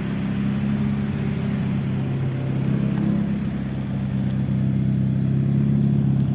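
1992 Honda Accord Maestro's fuel-injected four-cylinder engine idling steadily.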